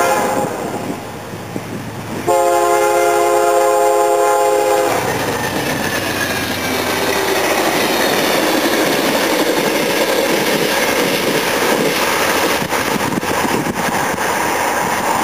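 Amtrak GE P42DC locomotive's air horn sounding a chord, one blast ending just after the start and a longer one from about two to five seconds in. The passenger train then rushes past with wheels clicking over the rail joints.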